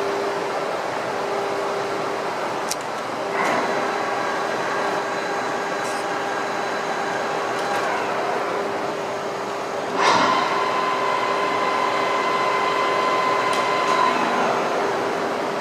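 VDF Boehringer DUE 800 turning lathe running with a steady hum. A knock comes about three seconds in and a sharper one about ten seconds in; each is followed by a steady whining tone for several seconds before it drops away.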